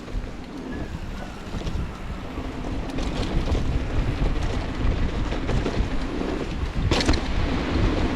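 Wind rushing over the microphone and a mountain bike rolling over a dirt trail, growing louder as the bike picks up speed, with a sharp clatter about seven seconds in.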